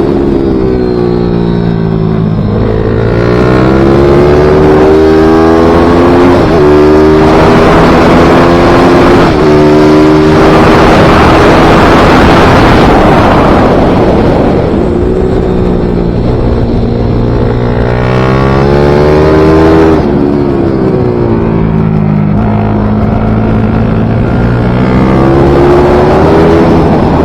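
Racing pit bike engine under hard use around a circuit, its pitch climbing through the revs, dropping back and climbing again several times as it accelerates, shifts and slows for corners.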